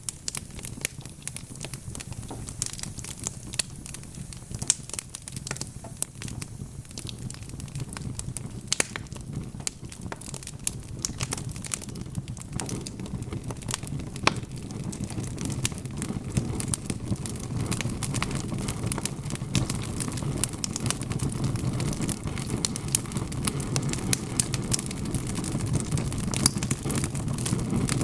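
Wood fire burning in a fireplace, with frequent sharp crackles and pops from the logs over a low rumble of flames that grows louder through the second half.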